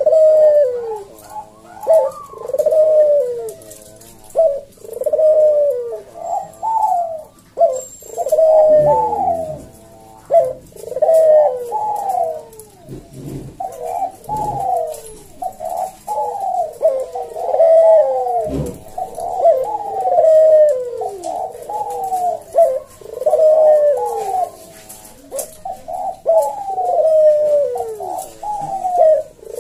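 Puter dove (domestic ringneck dove) cooing over and over in loud, sharp 'bekur' phrases, each a series of falling coos, repeated with only short gaps.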